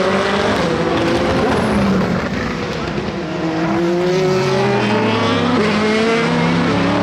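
Racing car engines accelerating on track, more than one car at once, their pitch climbing steadily with an upshift about five and a half seconds in before climbing again.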